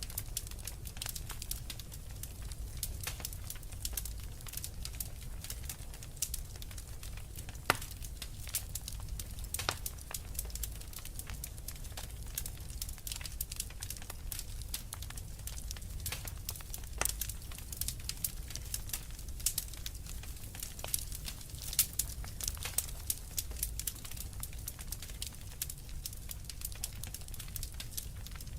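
Fire in a fireplace crackling: frequent small pops and snaps over a low steady rumble, with a sharper, louder pop about eight seconds in and several more later on.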